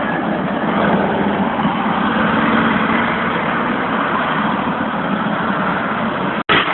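Diesel engine of a tracked armoured vehicle running steadily, with a sudden momentary drop-out near the end.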